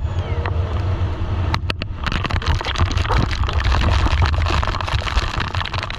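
Motorboat engine running with a steady low rumble under a rush of wind and water noise that grows louder about two seconds in, as heard on a banana boat ride.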